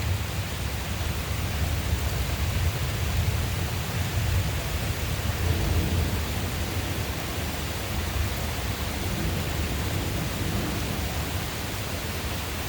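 Rolling thunder rumbling low under the steady hiss of rain, the rumble easing off in the second half.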